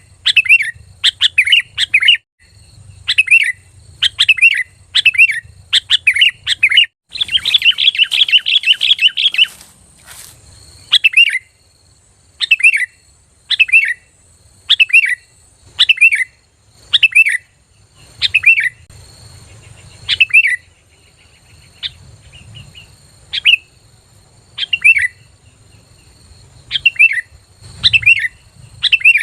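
Sooty-headed bulbul (kutilang) calling loudly: short, clear notes that drop in pitch, repeated about once or twice a second, with a dense burst of rapid chattering about seven seconds in.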